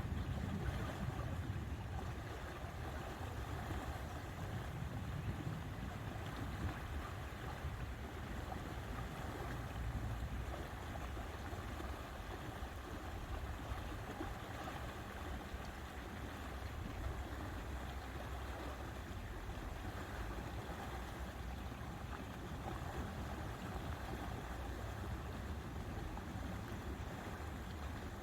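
Steady lakeside ambience of water and wind, with a low rumble under an even hiss, a little louder in the first couple of seconds.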